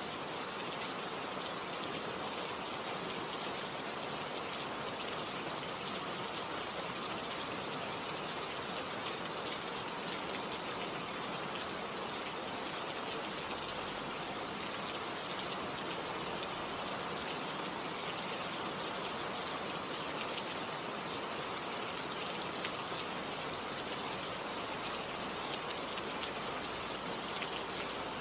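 Steady rain falling, with the patter of individual drops on a surface.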